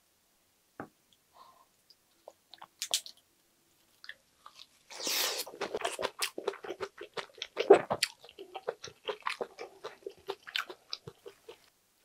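Chewing of a lettuce wrap of spicy pork gopchang and glass noodles, crisp crunchy bites repeating quickly. A few faint clicks come first; the chewing starts about five seconds in and is loudest a little before the eighth second.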